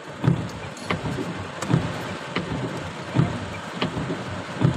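Heavy rain falling on a parked car, heard from inside the cabin as a steady hiss. Sharp knocks come through it about every 0.7 seconds.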